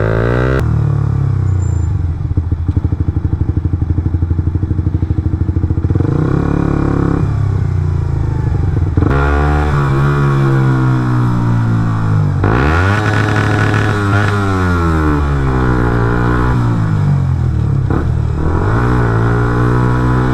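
Suzuki GSX-R125's single-cylinder four-stroke engine at riding speed. The revs stay low and pulse for a few seconds, then climb repeatedly with breaks between the climbs as it shifts up through the gears, then fall away in one long slow descent before rising again near the end.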